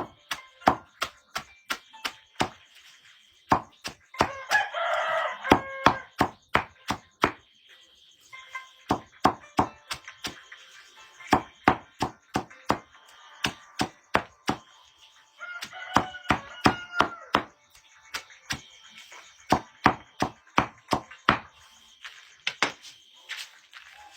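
A rooster crowing twice, each crow about two seconds long, over a steady series of sharp knocks at about two to three a second, like chopping.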